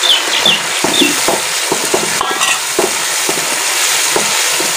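Chicken pieces frying in hot ghee with an onion-tomato masala: a steady loud sizzle, with the spoon knocking and scraping against the pot as the pieces are stirred.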